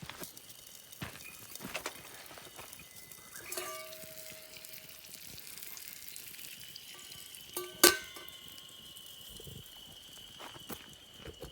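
Metal camp cookware clinking among small clicks and rustles: a soft ringing clink about three and a half seconds in and a sharp, louder ringing clink near eight seconds. A faint steady high tone runs through the second half.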